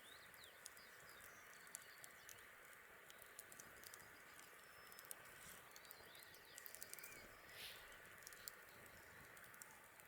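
Faint campfire crackling: scattered sharp snaps and pops at irregular intervals over a steady low hiss.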